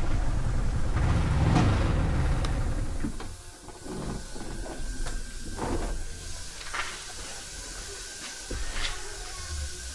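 Yamaha R15 M motorcycle riding on a wet road, with its engine and wind noise dying away about three seconds in. What is left is a steady hiss of water with scattered small clicks.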